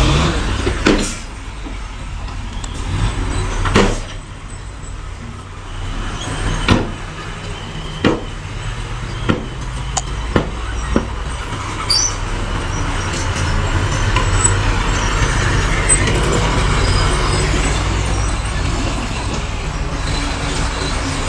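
Diesel heavy earthmoving machinery running with a steady low rumble, broken by sharp metallic clanks every second or so in the first half. The engine grows fuller and busier for the last several seconds.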